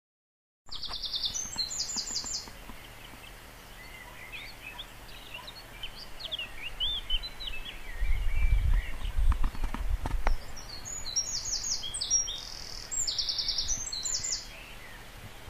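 Birds singing outdoors: warbling, gliding song phrases, with a rapid high-pitched pulsed trill near the start and again near the end. A low rumble with a few knocks comes about halfway through.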